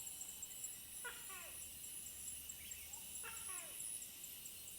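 An animal calling, a short call with a falling pitch repeated about every two seconds, over a steady high hiss with faint regular ticks.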